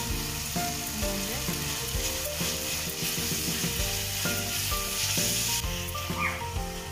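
Onion-tomato masala sizzling in an aluminium kadai as a wooden spatula stirs it, with fresh coriander and mint leaves just added.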